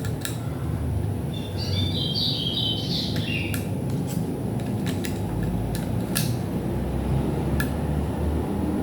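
Sharp clicks and taps of small parts and tools being handled while a Philips stereo is taken apart, over a steady low hum. A short run of high chirping notes, stepping downward, comes about one and a half seconds in.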